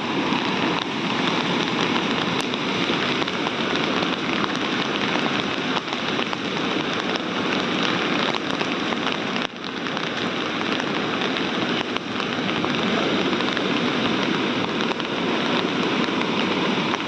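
Steady hiss of heavy rain, with a brief drop in level about nine and a half seconds in.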